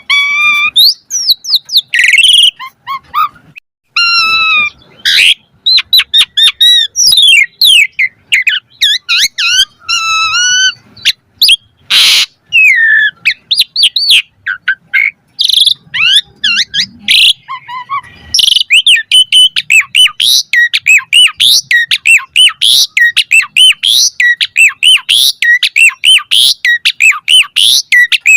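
Asian pied starling (jalak suren) singing a long, varied song of whistled glides mixed with harsh, rasping notes, breaking into a fast run of repeated chirps, about three a second, in the second half.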